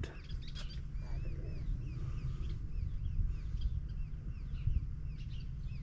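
Small birds chirping: many short, high, curving chirps repeating several times a second, over a low steady rumble.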